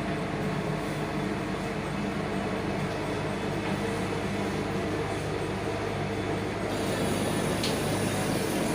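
Machinery running steadily with a low, even hum and a rough mechanical noise over it, typical of a ship's engine room with the machinery working.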